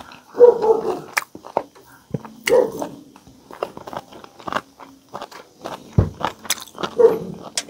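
Close-miked chewing and crunching of crispy pata (deep-fried pork knuckle), with many sharp clicks and crackles from the mouth and the fried skin.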